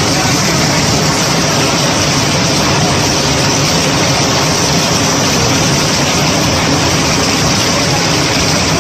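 Steady, loud rushing of water from heavy rain and street floodwater.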